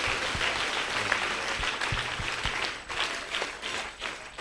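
Congregation applauding, many hands clapping together, the clapping thinning out and fading near the end.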